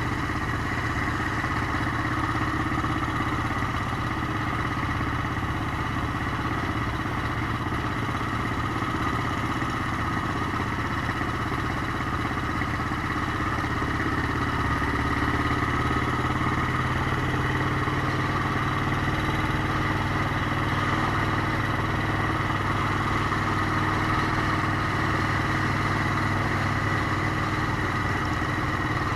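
Motorcycle engine running steadily on the move, its note shifting slightly about halfway through.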